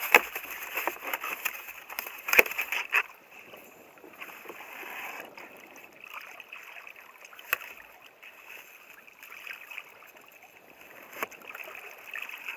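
Water sloshing and splashing around a fishing kayak, busiest in the first three seconds, with a few sharp knocks scattered through it.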